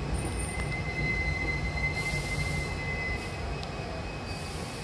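Hankyu electric commuter train heard from inside the carriage, a steady low running rumble as it rolls along the station platform. A high steady squeal comes in about half a second in and fades out after about three seconds as the train slows, with short hisses at about two seconds and again near the end.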